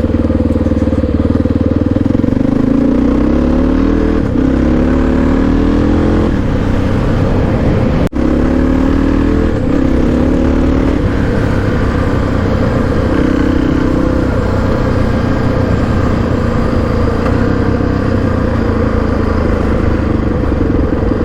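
Honda XR650R's single-cylinder four-stroke engine under way on the road, rising in pitch through a few gear changes early on and then cruising at a steady speed, with wind and road noise. A momentary break in the sound comes about eight seconds in.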